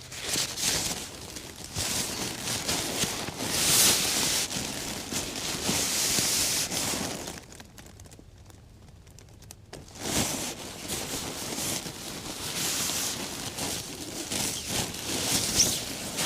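Rustling and crinkling of gear being handled, with scattered small clicks and a quiet pause about halfway through.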